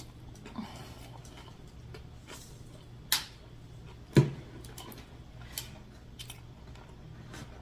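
Quiet mouth and eating sounds of a person chewing fast food, with a few sharp clicks, the two loudest about three and four seconds in, over a faint steady hum.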